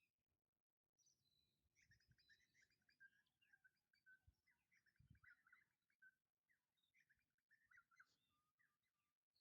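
Faint birdsong: many quick chirps and twitters from about a second in until near the end.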